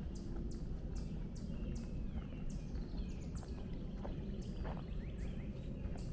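Footsteps of a walker on a trail, short crisp crunches about twice a second, with birds chirping now and then over a steady low background rumble.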